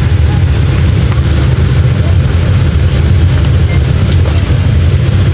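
Loud, steady low rumble inside the cabin of a Boeing 737-500 with its CFM56 jet engines running.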